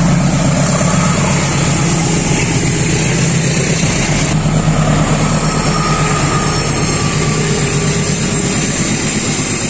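Indonesian passenger train passing close by: a steady rumble of coaches rolling over the rails, with the low hum of a diesel-electric locomotive underneath.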